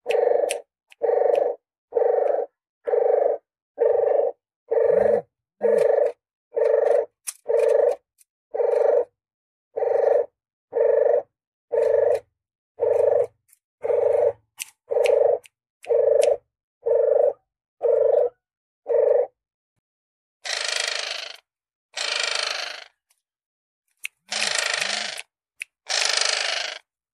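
Puter geni turtle dove lure call: short coos repeated about once a second. About twenty seconds in, these give way to four longer, hoarse, hissing sounds about a second each.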